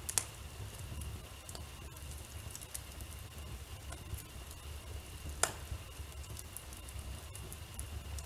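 Wood fire crackling in a fireplace: scattered small snaps over a low steady rumble, with two sharper pops, one just after the start and one about five and a half seconds in.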